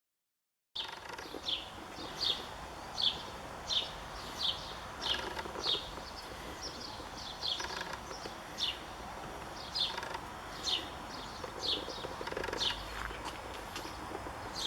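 A bird singing outdoors: a single short, high note falling in pitch, repeated over and over at about one to two a second, over a faint steady background hiss. The sound cuts in just under a second in.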